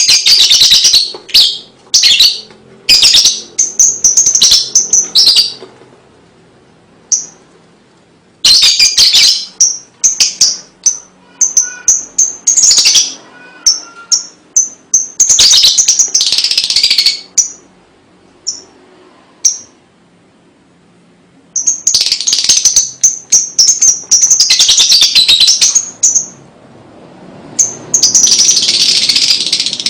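Lovebird ngekek: long, rapid, high-pitched chattering trills in repeated bursts of a few seconds each, broken by short pauses and single chirps, ending in one long continuous burst.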